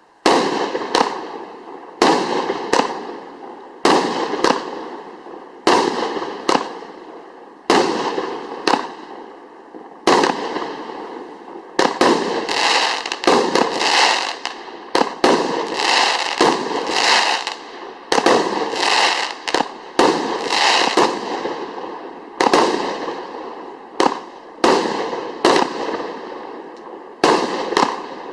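A 36-shot fireworks cake with 30 mm tubes firing its shots one after another: a sharp bang roughly every second, sometimes two close together, each trailing off as the shell bursts and fades. Through the middle the shots come quicker and their tails run together.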